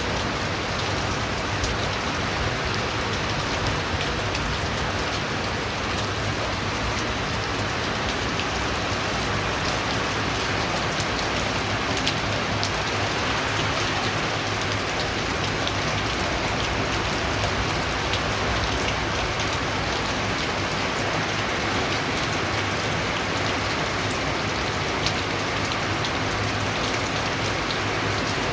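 Heavy rain falling steadily: a dense, even hiss dotted with countless small drop impacts.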